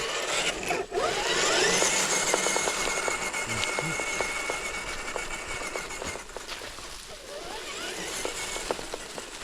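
Small electric motor and gearbox of an RC scale crawler truck whining. The pitch rises about a second in, holds steady for a few seconds, then rises again near the end, with scattered light clicks.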